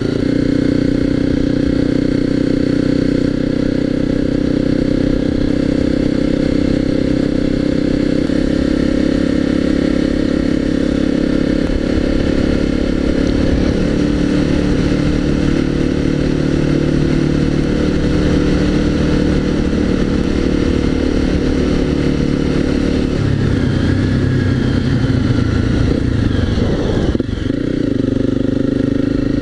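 Honda CRF250L's single-cylinder four-stroke engine running under way, its note holding steady and then stepping to a new pitch several times, with a short dip and rise near the end.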